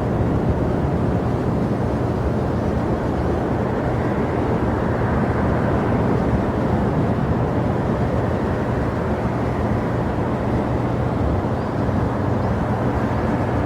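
Jet airliner engines running as a steady, even rumble.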